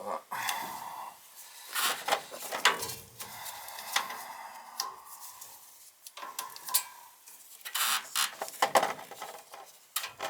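Irregular metallic clinking and rattling of tools and parts being handled while working on a gas furnace.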